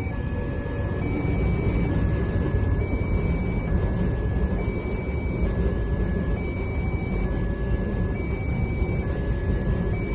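Railway level-crossing warning alarm sounding, an electronic two-note tone that switches between a higher and a lower note about once a second. Under it runs the steady low rumble of a passing train.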